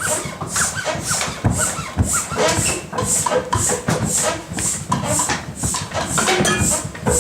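Group sound improvisation: a regular hissing pulse about twice a second, with scattered short voice-like squeaks and calls over it.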